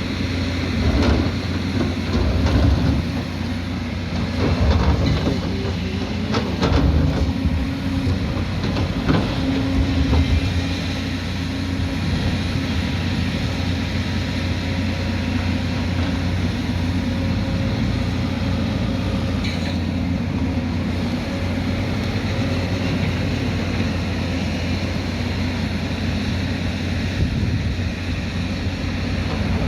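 Heavy diesel earthmoving machine running with a steady low engine drone. Clanks and knocks come one after another over the first ten seconds or so, then the sound settles into a steady running note.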